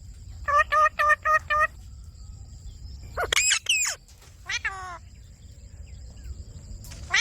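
Indian ringneck parrot calling: a quick run of about five short squawks, then sharp sweeping screeches about three seconds in and a falling call a little later.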